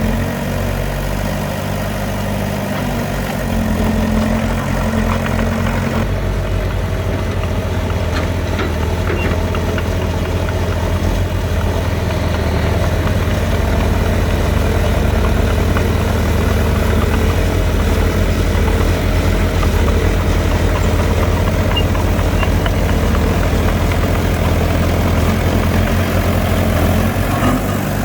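Diesel engine of heavy earthmoving machinery running steadily, its note changing about six seconds in and growing a little louder.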